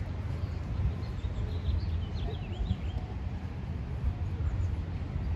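A small bird gives a quick run of short, falling chirps about two to three seconds in, over a steady low rumble.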